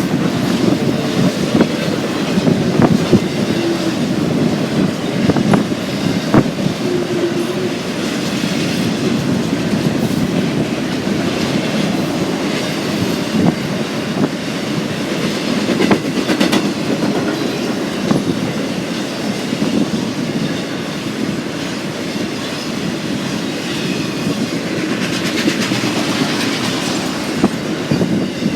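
Freight train cars rolling steadily past, steel wheels clicking and clacking over the rail joints, with a few brief squeals in the first several seconds.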